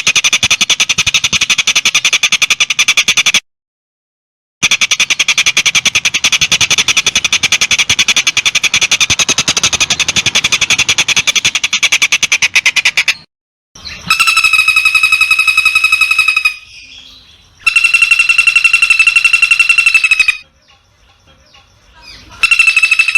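Loud recorded animal calls edited together for songbird training: a very rapid, high trill that cuts off briefly and resumes, then three long, steady, buzzing calls of two to three seconds each, separated by abrupt edits.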